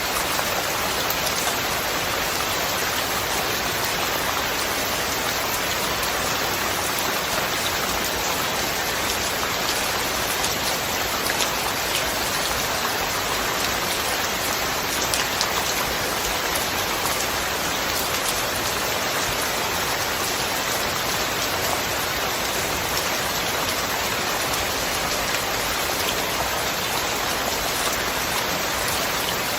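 Steady, dense rain falling, with fine individual drop ticks in an even hiss.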